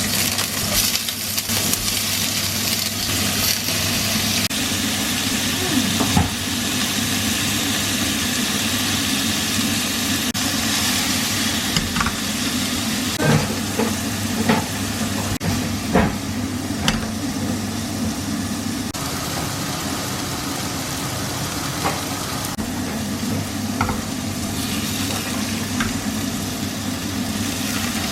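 Food sizzling while frying in a pan and being stirred, with sharp clicks of a utensil against the pan now and then, over a steady low hum.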